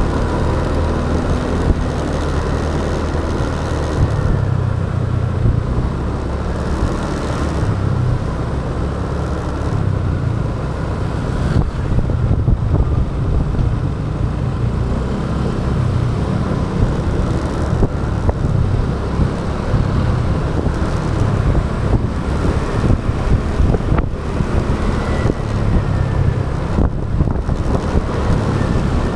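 Motorbike running at riding speed in traffic, with a steady low rumble of engine and road noise throughout.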